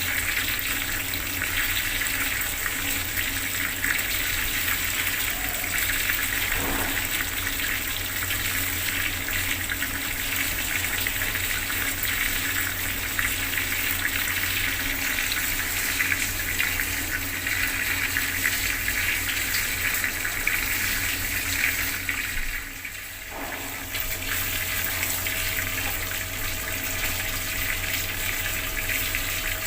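Bathroom water tap running in a steady stream, dipping briefly quieter for about a second near the end.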